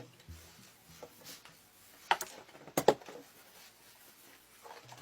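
A few sharp clicks or knocks in a small room: one about two seconds in, then a louder pair close together near three seconds.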